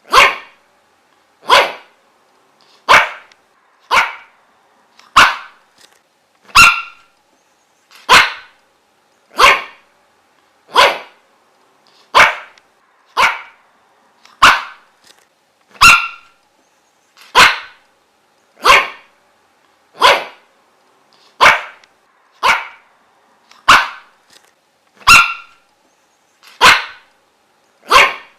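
A dog barking single, short, sharp barks at an even pace, about one every 1.3 seconds, over a faint steady hum.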